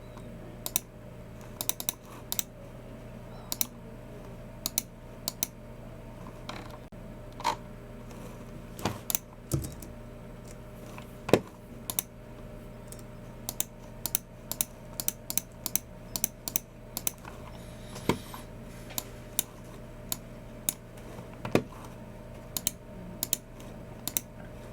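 Typing on a Logitech MX Keys Mini low-profile keyboard: irregular runs of soft key clicks with short pauses, a few keystrokes louder than the rest, over a steady low hum.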